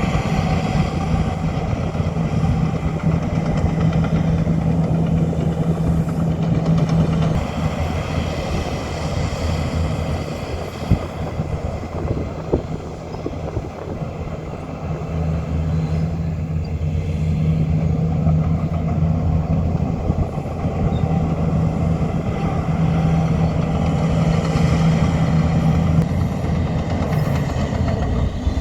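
Heavy diesel earthmoving machinery, a bulldozer working dirt, running steadily under load with a strong engine drone. The engine eases off for a few seconds mid-way and then pulls hard again, with a couple of sharp knocks in the quieter stretch.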